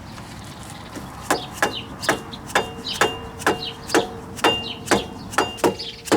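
Regular metallic clicks, about two a second, each with a brief ringing tone, starting a little over a second in.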